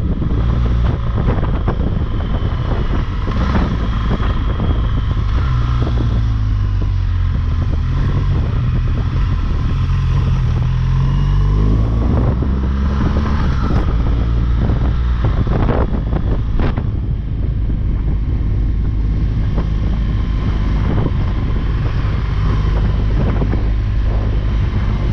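BMW R1200GS Rallye's boxer-twin engine under way on a climbing mountain road, its revs rising and falling with the throttle and gear changes. Wind rushes over the helmet microphone.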